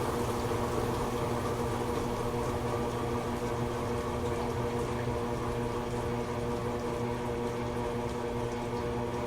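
Toshiba AW-42SEE4 fully automatic washing machine with its main motor at rest: a steady hum with water noise in the tub.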